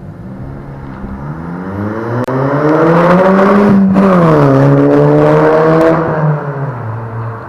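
2006 Skoda Octavia vRS 2.0 TFSI turbocharged four-cylinder, fitted with a decat 3-inch downpipe and a 2.5-inch free-flowing custom rear exhaust, accelerating hard with the exhaust note rising in pitch. It shifts up just before the midpoint, pulls again in the next gear, then eases off near the end.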